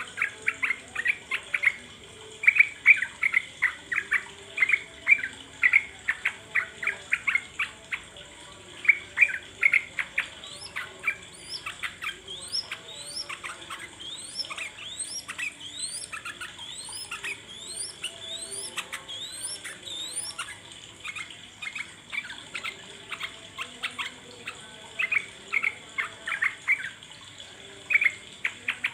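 Yellow-vented bulbul (trucuk) song: fast runs of short chattering notes, with a string of quick upward-sweeping notes in the middle stretch.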